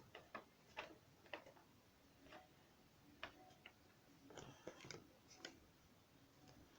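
Faint, scattered light clicks and taps, with a small cluster of them about four and a half seconds in: plastic LEGO pieces and packaging being handled during unboxing.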